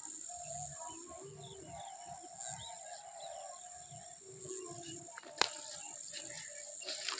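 Insects drone steadily at a high pitch, with birds chirping and calling over them. There is a sharp click about five seconds in.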